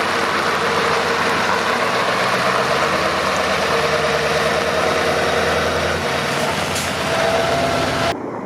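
Scania V8 diesel truck engine running at a steady speed, with an even, low engine note. It cuts off abruptly about eight seconds in.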